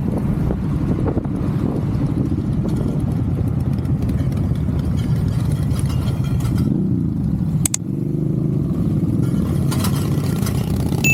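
Motorcycle engine running steadily while riding, its pitch wavering up and down between about seven and nine seconds in, with one sharp click about eight seconds in.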